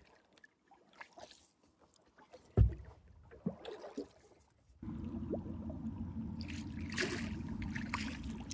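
A few hollow knocks from a small boat, the loudest about two and a half seconds in. About five seconds in, a steady rush of falling water from the floating pond fountain's spray starts abruptly, heard up close.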